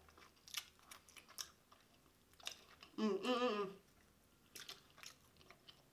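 Close-up eating sounds: chewing, lip smacks and the wet smacks of licking curry off fingers, in short scattered clicks. About three seconds in, a short hummed "mm" of enjoyment.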